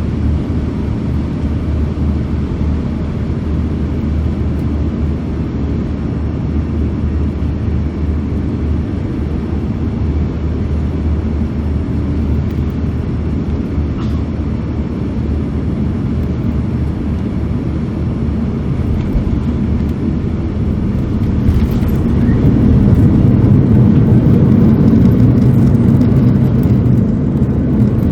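Cabin noise inside an Airbus A340-600 on landing: a steady low rumble of its four Rolls-Royce Trent 500 engines and airflow. The rumble grows louder and heavier about 22 seconds in and stays up to the end.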